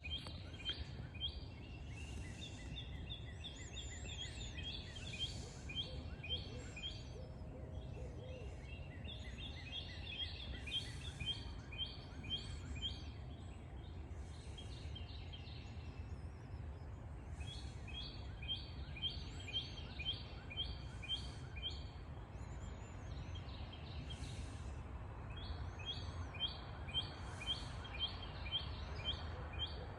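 Faint, distant barred owl hooting, low in pitch, under bouts of high chirping notes repeated about four times a second, with a steady low rumble throughout.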